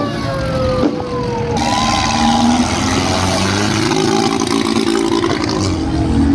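Tractor engine revving hard. An engine note falls in pitch through the first second and a half, then a loud, harsh roar comes in suddenly with the note climbing and held high.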